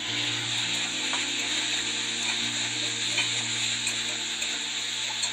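Chopped tomatoes sizzling in hot oil in a kadai with frying onions and garlic: a steady sizzle that starts as they go into the pan, with a couple of faint spatula clicks as they are stirred.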